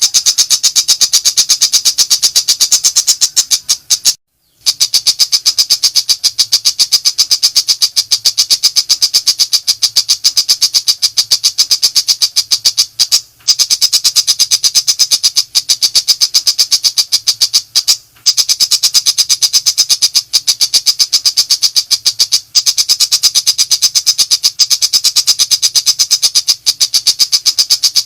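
Pentet macan shrike singing its rapid-fire 'nembak' song: a fast, continuous chatter of high notes, broken by short pauses about four, thirteen, eighteen and twenty-two seconds in. A faint low hum lies underneath.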